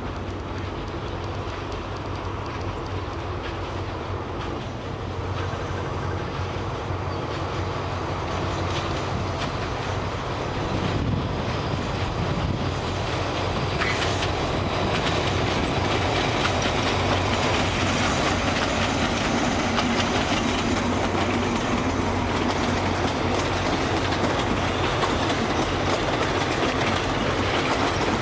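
Diesel locomotive hauling a rake of passenger coaches approaching and rolling past, its engine a low steady hum and its wheels clattering over the rail joints and points. It grows louder from about halfway through as the train comes alongside.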